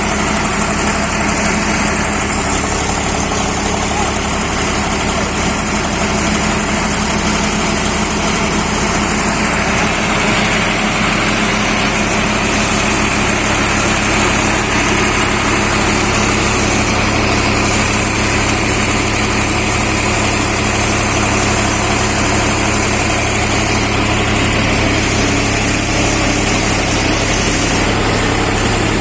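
A Swaraj 735 FE tractor's three-cylinder diesel engine running steadily, driving a seven-fan paddy thresher. A loud, constant machine noise with a steady low hum that does not change.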